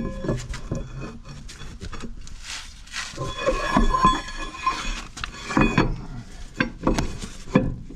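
Steel axle shaft and axle parts clanking and scraping, metal on metal, as the shaft is handled and fitted into the bus axle. There are repeated sharp knocks and clinks that ring briefly.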